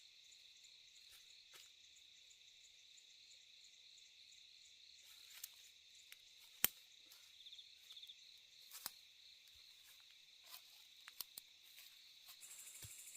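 Faint steady chirring of night insects, such as crickets, with a few sharp clicks scattered through, one much louder than the rest about six and a half seconds in. Near the end a louder, rapidly pulsing insect trill starts up.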